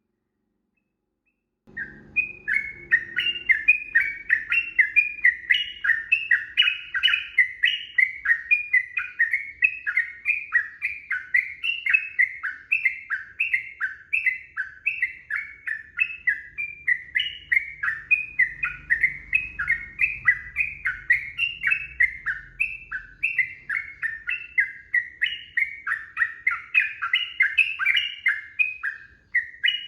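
Yellow-vented bulbul singing a long, unbroken run of quick, bubbling repeated notes, about three a second, starting about two seconds in.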